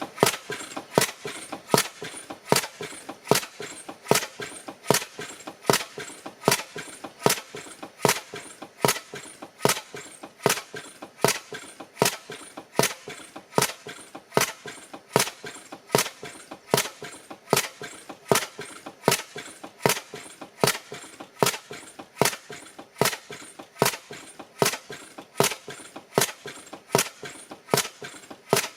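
Bessemer 12 hp gas engine, a c.1900 cylinder conversion on an Innis steam engine, running steadily with a sharp, regular clack about five times every four seconds and lighter ticks and clatter between.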